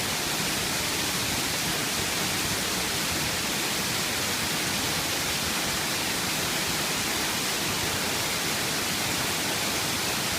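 Waterfall pouring and splashing into a pool, a steady rushing noise.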